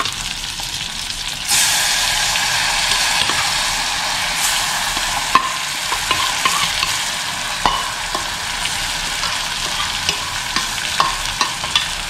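Stuffed brinjals frying in sesame oil in a steel pot, sizzling; about a second and a half in the sizzle gets louder as the remaining spice masala is added. A metal spoon clinks and scrapes several times against the bowl and pot.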